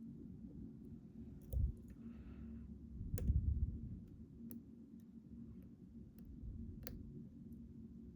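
Light, irregular metallic clicks of a hook pick and tension tool working the pins inside a Ruko 600 lock cylinder, with two low bumps of handling about a second and a half and three seconds in.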